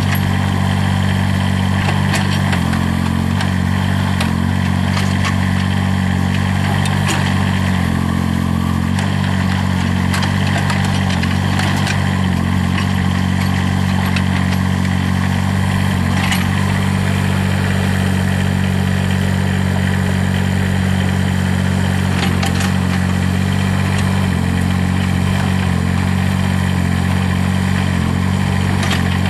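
Kubota three-cylinder turbo diesel of a Terramite T9 loader backhoe running steadily. Its note rises briefly about three seconds in and again around eight seconds. Scattered clicks and knocks sound over it.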